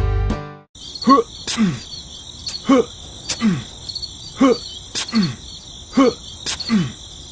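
Steady chorus of crickets chirping. Over it, about eight short falling sweeps, each with a click, repeat roughly every half second to second.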